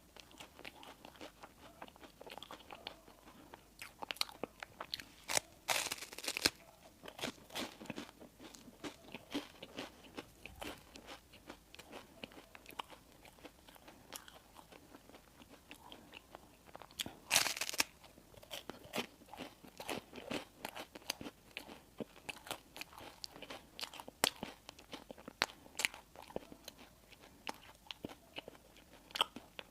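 Close-miked chewing and crunching of crispy baked bread and buns, a steady run of small crunchy clicks with two louder, longer crunches about six seconds in and again around seventeen seconds.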